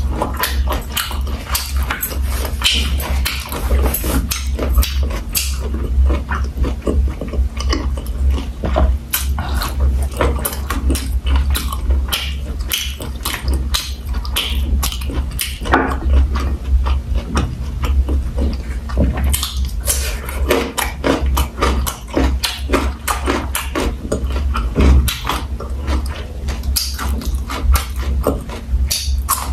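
Close-miked chewing and wet lip-smacking of a person eating, a steady stream of small clicks and smacks with no pause.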